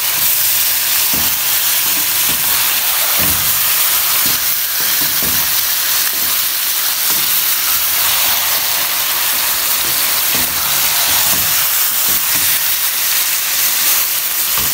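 Chicken pieces frying in hot oil with onions and spice paste, sizzling steadily, while a wooden spatula stirs and scrapes through them in irregular strokes.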